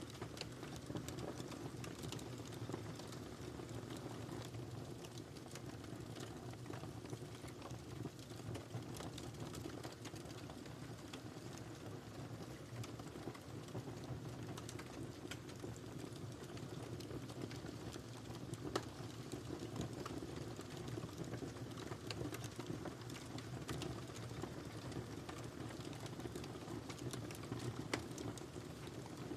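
Wood fire crackling in a fireplace: a steady low rumble of burning with frequent small crackles and snaps, and a louder pop about two-thirds of the way in and another near the end.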